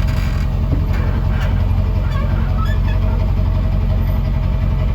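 A car engine running steadily with a low, even drone, heard from close by.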